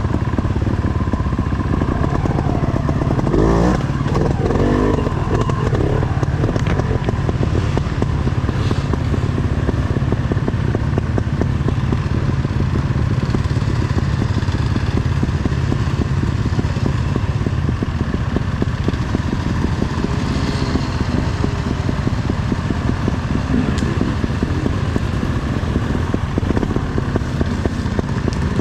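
Enduro dirt bike engine running continuously under a rider, its pitch rising and falling with the throttle a few seconds in.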